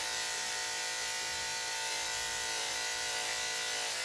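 Electric dog grooming clippers running with a steady, even hum.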